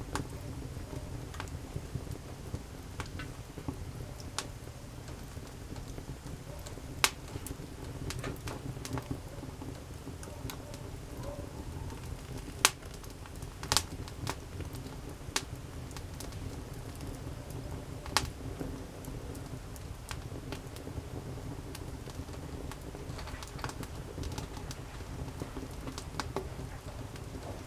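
Wood campfire burning and crackling, with scattered sharp pops over a low steady rumble; the loudest pop comes about halfway through.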